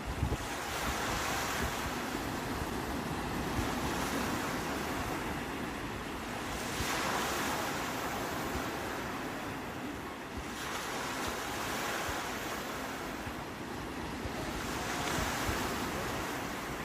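Sea waves breaking and washing ashore, a steady rush of surf that swells and eases in surges a few seconds apart.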